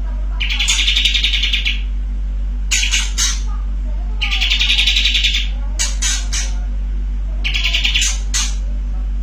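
Kapas tembak bulbul singing: three long rattling trills of rapid pulses, each about a second, the 'bren' roll, with short sharp calls between them.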